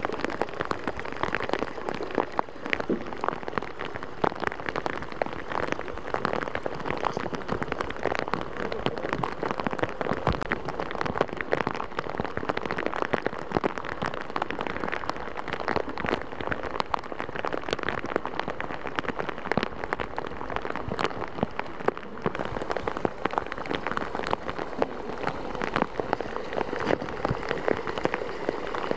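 Heavy rain falling steadily, countless drops striking hard surfaces in a dense, even patter.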